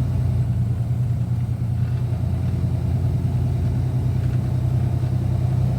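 Semi-truck running with a steady, low engine drone that holds an even level throughout.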